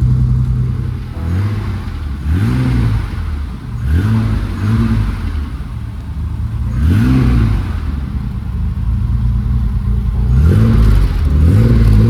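BMW 535 engine idling and being blipped several times, each rev rising and dropping back to idle.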